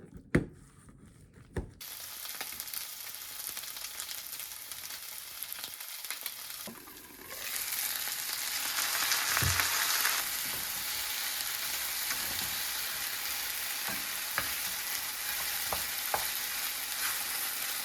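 Meat sizzling in a frying pan, a steady hiss with occasional clicks from stirring. The sizzle starts about two seconds in, after a few knocks, and gets louder about seven seconds in.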